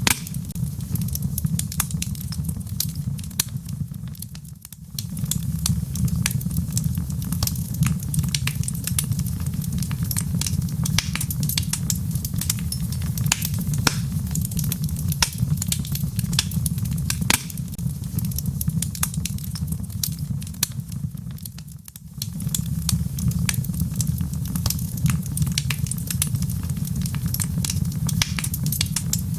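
Wood logs burning in a fireplace: a steady low rumble of the fire with frequent sharp crackles and pops. The sound dips briefly twice, about 4 seconds in and again about 22 seconds in.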